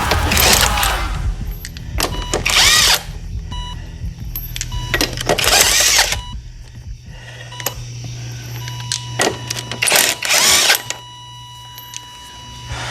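Impact wrench run in four short bursts, each rising and falling in pitch as it spins up and stops, loosening a car wheel's lug nuts.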